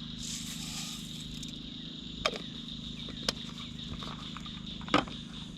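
Half a cup of dry instant rice poured into a pan of seasoned hamburger and water: a short hissing patter lasting about a second and a half, then three sharp knocks spread over the next few seconds.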